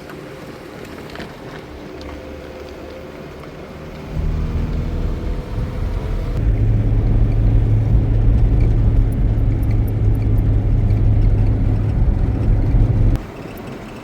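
A motor vehicle engine running with a steady low hum, louder from about four seconds in and cutting off abruptly near the end.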